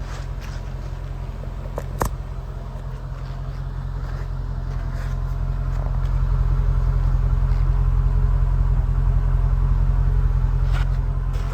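Mercedes-Benz E55 AMG's 5.4-litre V8 idling cold, a steady low burble, growing louder from about five seconds in. A single sharp click about two seconds in.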